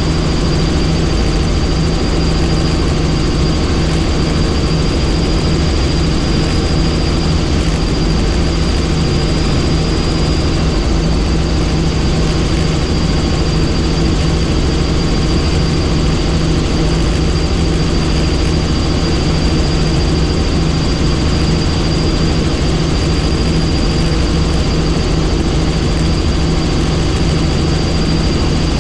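Helicopter in steady flight: a constant low engine-and-rotor drone with a thin high turbine whine above it, unchanging throughout.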